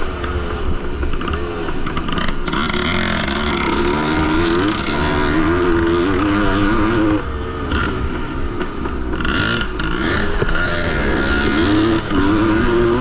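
Single-cylinder two-stroke engine of a 1973 Yamaha MX250 motocross bike racing, its pitch climbing and dropping again and again as the throttle opens and closes and the gears change, over a steady low rumble.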